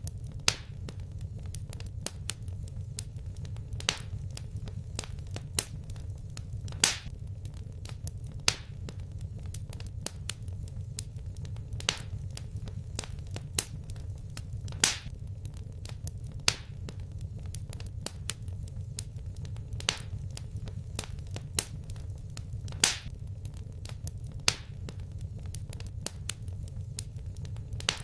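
Wood fire crackling in a fireplace: sharp pops and snaps every second or two, a few of them much louder, over a steady low rumble of the flames.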